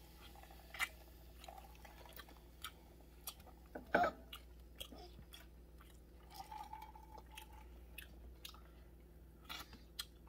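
A person chewing roast turkey meat: irregular wet smacks and clicks of eating, with one louder smack about four seconds in.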